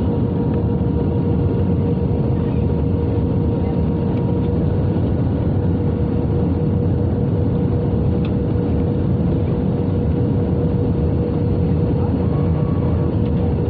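Steady roar of engines and airflow heard inside the cabin of an Airbus A320 in flight, with a steady hum running through it.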